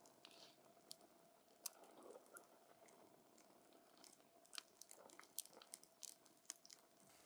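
Wood burning in a campfire, crackling faintly with sharp, irregular pops and snaps that come more often in the second half.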